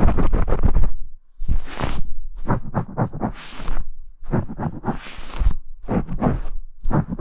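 Brush bristles scratching directly across a binaural ASMR microphone. A fast run of strokes lasts about a second, then comes in short scratchy groups separated by brief pauses.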